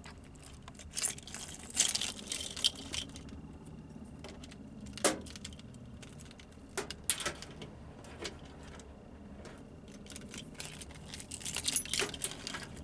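Small metal objects jingling and clicking as they are handled, in short irregular bursts with a few sharper clicks, the loudest about two and five seconds in. No engine is heard running.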